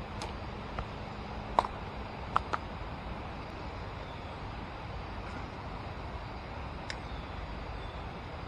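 Steady rush of river rapids, with a few sharp clicks about one and a half to two and a half seconds in.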